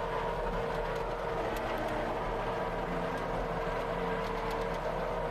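Skid steer loader's engine running steadily, with a constant whining tone over its drone.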